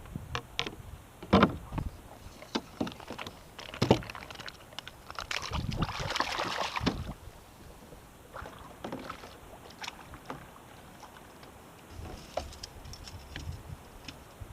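Kayak being paddled: paddle strokes swishing through the water, with scattered sharp knocks of the paddle or gear against the hull, the loudest two about one and a half and four seconds in.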